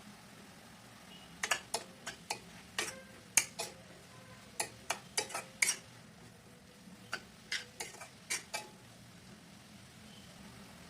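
Kitchen utensils clinking against dishes: a string of sharp, irregular clinks, some briefly ringing, that stops a couple of seconds before the end.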